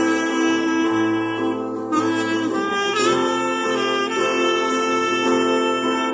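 Saxophone playing a slow melody of long held notes over instrumental accompaniment.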